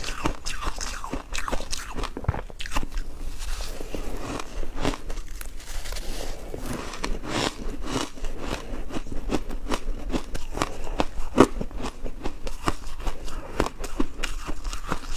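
Ice being bitten and chewed: a dense, irregular run of sharp crunches and cracks.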